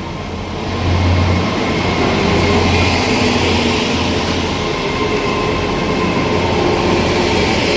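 Hitachi Class 800 train pulling out past the platform: the steady running noise of the multi-coach train, getting louder about a second in, with a low hum and a thin steady high whine over it.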